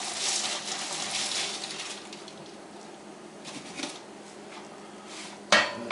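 Handling noises: a rustle in the first two seconds, a few faint light clicks, then a single sharp knock or clatter about five and a half seconds in.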